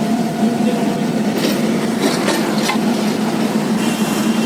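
Passenger train running steadily, heard from inside the carriage: a constant rumble with a low hum, and a few sharp clicks about halfway through.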